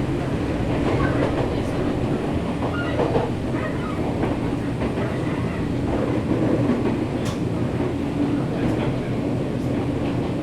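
Nankai 7100 series electric train running, heard from inside the passenger car: steady wheel-and-rail noise under a constant low hum, with occasional clicks of the wheels over rail joints.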